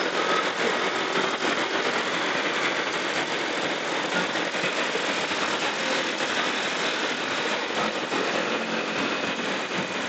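Steady road and wind noise from a moving motorcycle, with the engine running underneath.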